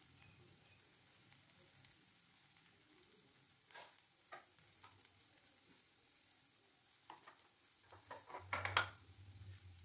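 Faint sizzle of onions and spices frying in oil in a pan, with a few light clicks scattered through, bunched together near the end.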